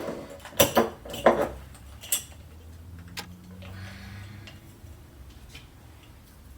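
Spice containers and pots being handled while seasoning: a few sharp clicks and knocks in the first two seconds, then fainter scattered taps.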